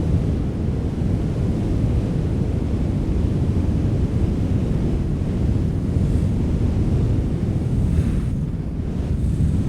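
Wind blowing steadily, a deep rushing noise weighted toward the low end, easing slightly near the end.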